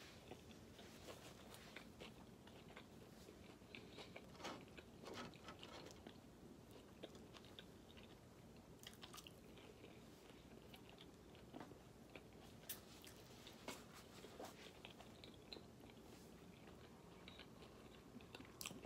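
Faint chewing of a bite of cheeseburger, close to the microphone: scattered soft mouth clicks over quiet room tone.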